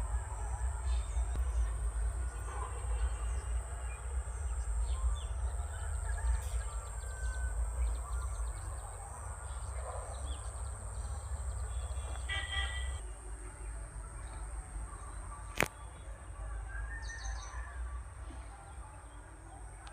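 Scattered bird chirps over a steady low rumble and a constant high-pitched whine, with a quick burst of chirps a little past halfway and a single sharp click about three-quarters through.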